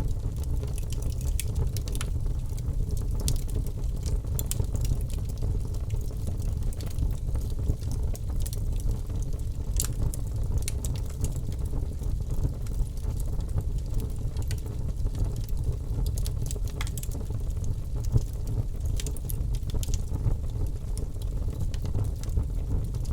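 Birch logs burning in a fireplace: a steady low rush of flame with scattered sharp crackles and pops.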